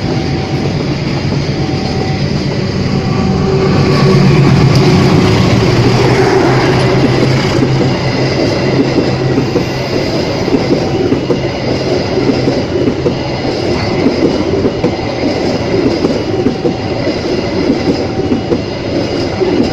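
A train passing close by. A steady low engine hum is loudest about four to six seconds in, then the wagons run past with a continuous rumble and a rapid clatter of wheels on the rails.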